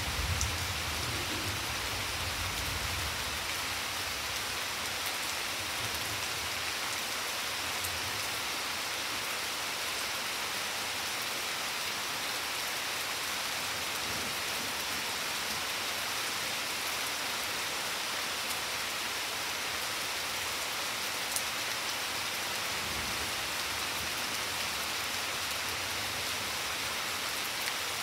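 Steady rain falling on garden plants, lawn and wet stone paving, with a few sharp drip taps. A low rumble sits under it in the first few seconds and again a little past twenty seconds in.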